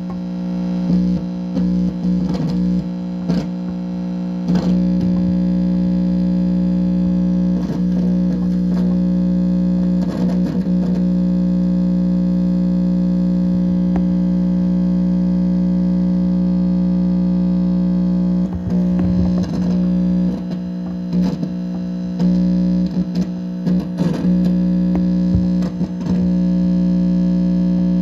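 Amplifier speaker putting out a loud, steady electrical hum with a distorted buzz, broken by irregular crackling bursts of interference.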